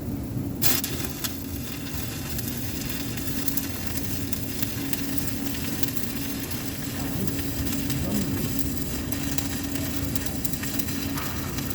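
Electric arc welding: the arc strikes about half a second in and crackles and sizzles steadily, over a steady low hum.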